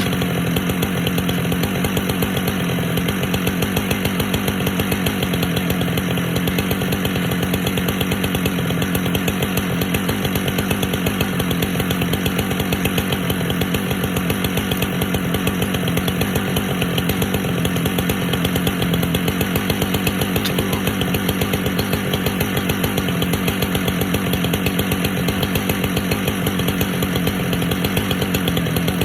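Husqvarna chainsaw cutting through a large pecan log, held at steady high revs under load.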